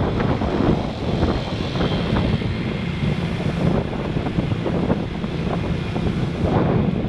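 Wind rushing over an action camera's microphone on a moving motorbike, over the steady noise of the bike and surrounding road traffic.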